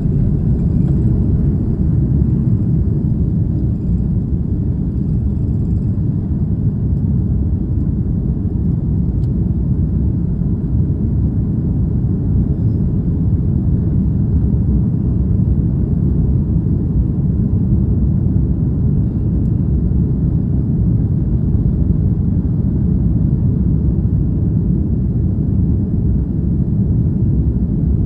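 Airbus A330-300 airliner's jet engines during take-off: a loud, steady, low rumble that holds level without rising or falling.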